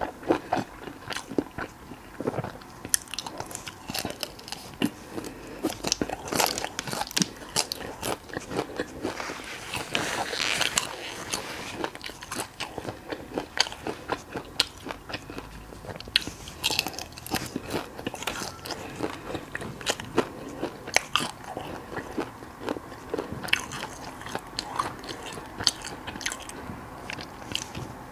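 Close-miked eating of crispy fried skewers: repeated crunchy bites and chewing, heard as a stream of irregular sharp crackles, densest about ten seconds in.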